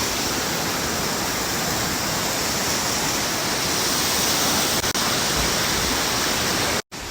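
Steady rushing of water from a creek waterfall, an even noise. It cuts out abruptly for a moment near the end.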